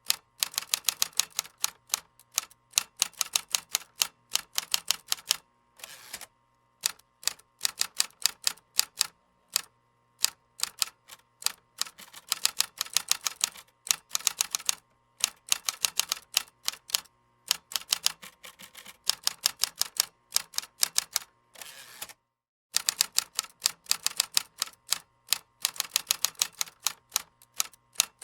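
Computer keyboard typing: rapid runs of key clicks, with short pauses about six seconds in and again near twenty-two seconds.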